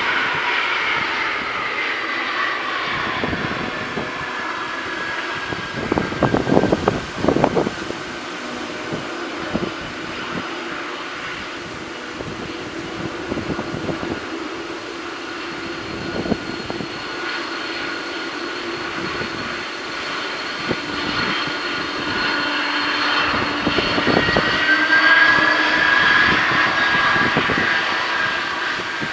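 Boeing 747-400F freighter's four jet engines running at takeoff power: a steady high whine over a rough rumble. The rumble swells loudest about six to eight seconds in, and the whine grows stronger again in the last few seconds.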